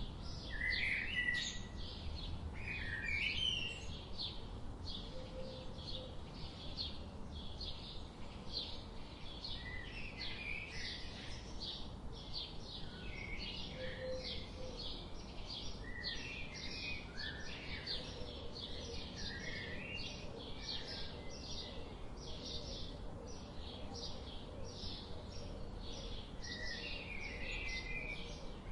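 Several birds chirping: a steady run of short high chirps, about two a second, with warbling song phrases from other birds breaking in every few seconds, over a faint low rumble.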